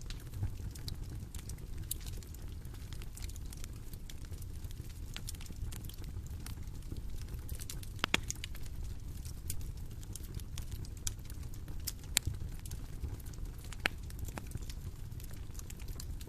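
Bonfire crackling: irregular sharp pops and snaps over a steady low rumble, with a few louder pops about halfway through and later on.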